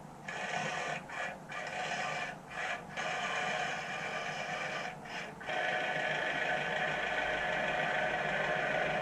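Small Lego electric motor and its gearing whirring, stopping briefly a few times in the first half and then running steadily.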